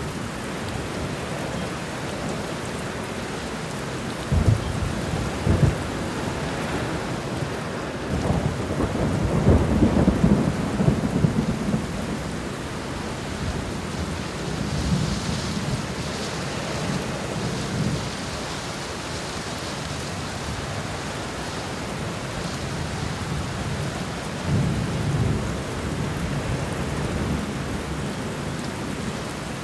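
Steady heavy rain with thunder rumbling several times: short low rolls about four and six seconds in, a longer, louder roll from about eight to twelve seconds, and a softer one near the end.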